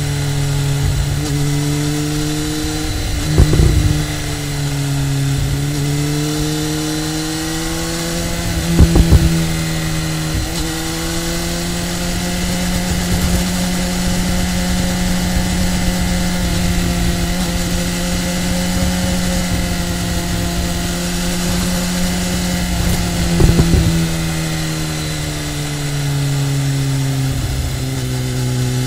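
Sport motorcycle engine recorded on board while riding, its pitch rising and falling gently with the throttle through the bends. Three brief loud knocks stand out over the engine note.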